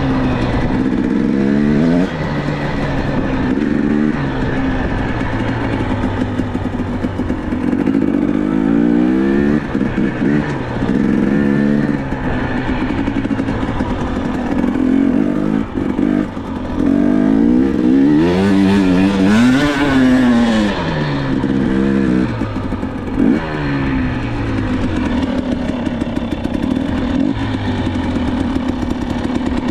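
Dirt bike engine running under load, its pitch climbing and dropping again and again as the throttle is opened and rolled off, with the biggest rev about two-thirds of the way through.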